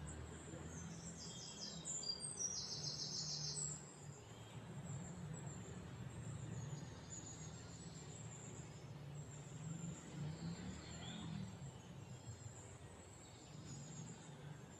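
Small birds chirping in quick high-pitched runs, busiest between about one and four seconds in. Under them runs a steady low hum of outdoor background noise.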